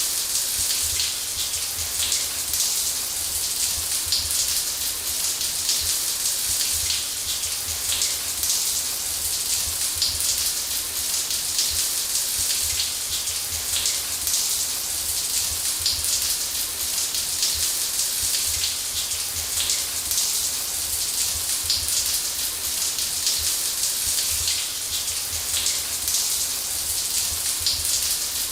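Shower spray running steadily: an even hiss of water pattering down, mostly high-pitched with fine drop ticks, over a faint low rumble.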